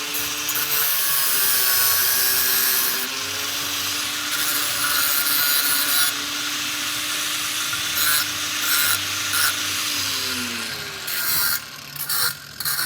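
A handheld power tool running under load with a dense, rasping hiss over a steady motor note. The motor note winds down about ten seconds in, followed by a few short bursts of the tool.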